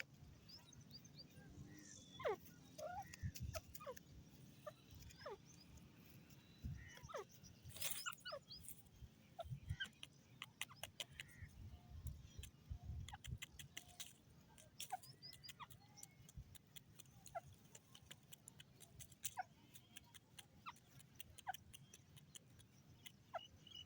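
Faint, scattered short chirps of grey francolins (teetar), mixed with many soft clicks and taps; the loud full call is not heard.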